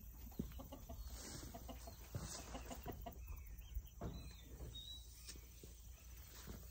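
Faint bird calls: short low calls repeated about once a second, with a brief high chirp about four seconds in.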